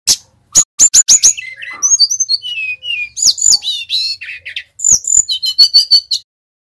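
Sikatan rimba dada coklat (jungle flycatcher) singing a rapid, varied phrase of sharp high chirps and slurred whistles, ending in a fast trill about six seconds in before it stops.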